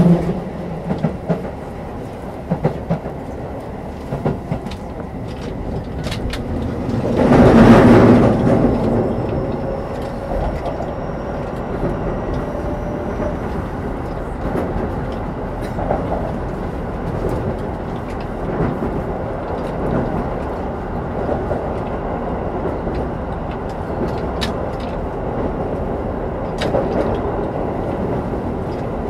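Running sound inside a Keio 9000 series motor car with Hitachi IGBT VVVF control: a steady rumble of wheels on track, with clicks over rail joints. The noise swells loudly for about a second around seven to eight seconds in, and a faint rising whine follows.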